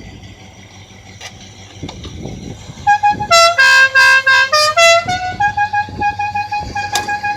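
Musical car horn playing a tune of loud stepped notes, starting about three seconds in and turning into a quick run of repeated notes on one pitch. Before it there is a low murmur of outdoor crowd noise.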